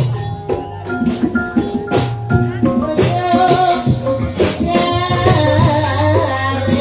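Banyumasan gamelan music accompanying an ebeg dance: sustained pitched notes with rattling percussion and sharp strokes, and a wavering sung line from about three seconds in.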